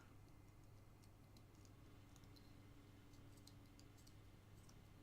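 Near silence: faint, scattered small clicks over a low steady hum.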